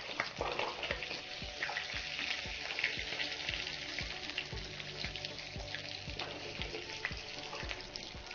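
Paneer cubes frying in ghee in a kadai, the ghee sizzling steadily, with light scrapes and knocks of a metal spoon as the golden cubes are stirred and lifted out of the pan.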